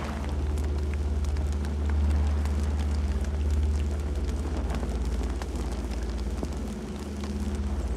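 Campfire burning: a steady deep rumble of flames, with scattered sharp crackles and pops from the wood.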